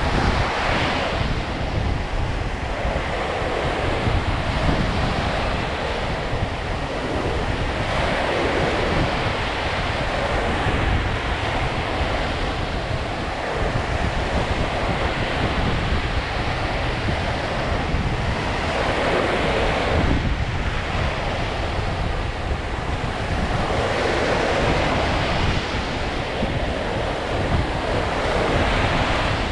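Lake Michigan waves washing onto the shore, the surf swelling every few seconds over a steady wash, with wind buffeting the microphone.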